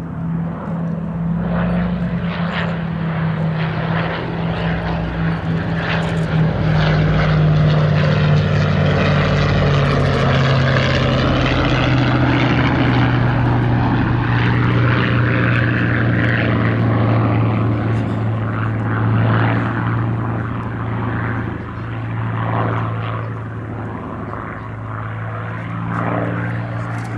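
A Boeing B-17G Flying Fortress and a P-51D Mustang flying past with their piston engines droning steadily. The engine note drops in pitch about ten seconds in as they go by.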